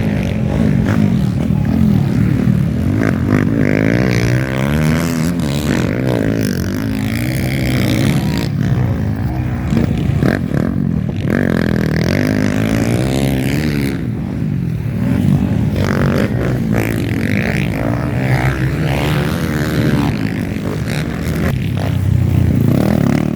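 Several motocross dirt bike engines revving and shifting through the gears, overlapping, their pitch rising and falling again and again.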